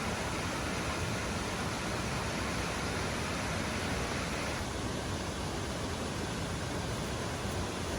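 Waterfall rushing: a steady, even hiss of falling water, thinning slightly in its upper range about halfway through.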